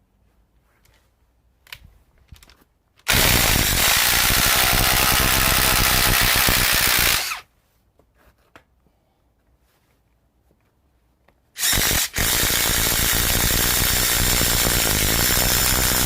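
Cordless Ryobi impact driver boring a paddle bit into wood: a loud run of about four seconds starting about three seconds in, a pause, then a second run starting near the middle that cuts out for a moment just after it begins and then continues to the end.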